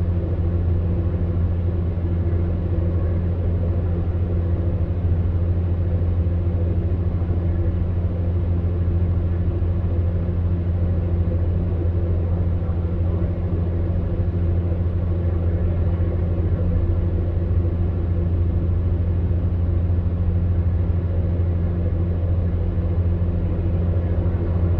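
Electric fan heater running: a steady low hum with a few fainter steady tones above it over an even rush of air, with no change in pitch or level.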